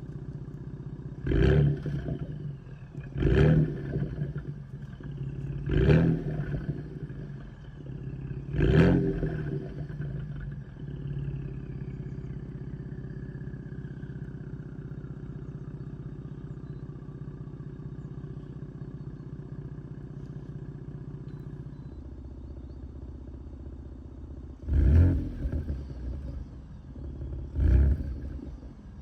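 Ford Bronco engine through its active exhaust, idling and blipped with quick, sharp revs that each fall straight back to idle: four in the first nine seconds, then a steady idle. About two-thirds through the idle note drops lower, and two more revs follow near the end.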